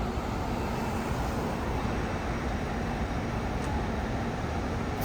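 Steady low rumble of a fire engine's diesel engine mixed with city street traffic noise, with no siren or air horn sounding.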